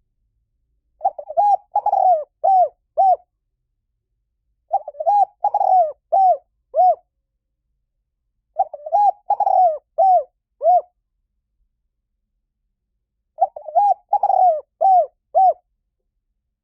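Spotted dove cooing: four phrases of several coos each, every phrase about two seconds long and ending in short falling notes, repeated roughly every four seconds.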